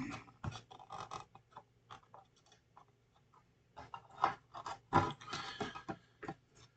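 Irregular small clicks, taps and scrapes of plastic model-kit parts being handled and worked with a hobby knife, denser in the first second and again from about four seconds in.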